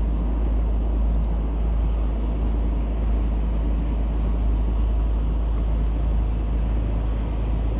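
A boat engine running steadily under a heavy wind rumble on the microphone.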